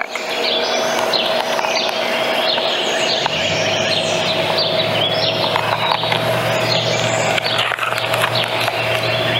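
Several birds chirping, many short quick calls overlapping, over a steady hum; a low drone joins about three seconds in.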